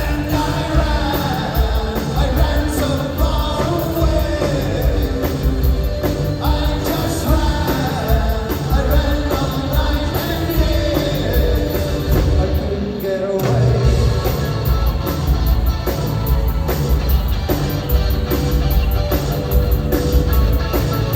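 Live rock band playing with a lead singer over bass and drums. The low end drops out briefly about 13 seconds in, then comes back.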